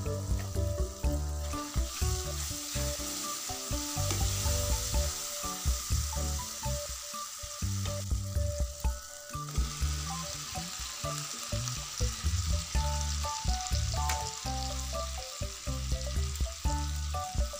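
Tomato-onion masala with green chillies and coriander seeds sizzling in hot oil in a wok, a steady frying hiss. Low background music notes sound underneath.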